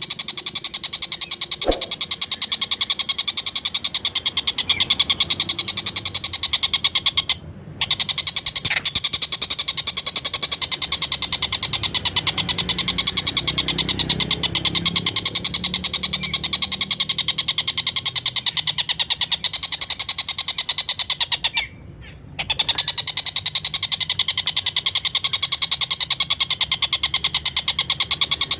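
Collared kingfisher (tengkek buto) giving its continuous rapid chattering 'ngekek' call: a fast, unbroken train of sharp, high repeated notes, with two short breaks about a third and three-quarters of the way through.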